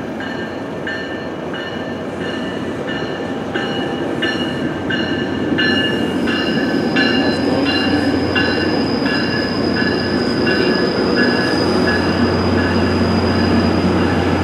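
Tri-Rail commuter train passing at close range, its bilevel coaches rumbling by and then its diesel locomotive, whose low hum grows near the end. A bell dings steadily about twice a second throughout, and a high steady squeal joins about halfway through.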